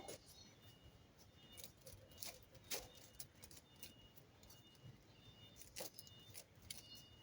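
Near silence with a few faint, scattered clicks and light ticks.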